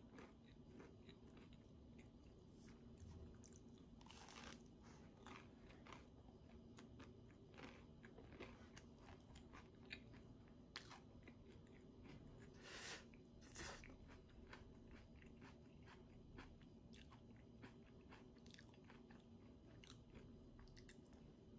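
Faint crunching bites and chewing of toast topped with mashed avocado, a series of short sharp crunches with a few louder ones near the middle.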